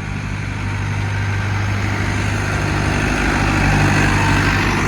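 Tractor engine running steadily, growing louder toward the middle and easing off slightly near the end.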